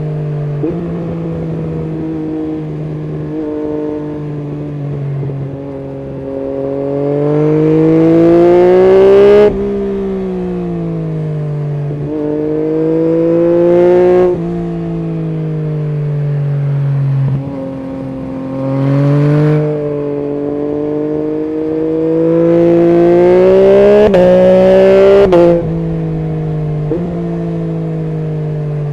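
Yamaha MT-09 SP's three-cylinder engine through an Akrapovic full exhaust system, accelerating and easing off in turn. The exhaust note climbs in pitch through four pulls, the longest near the end, and drops sharply each time the throttle closes.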